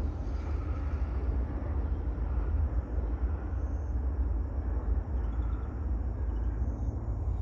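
Outdoor ambience: a steady low rumble under an even hiss, with no distinct events.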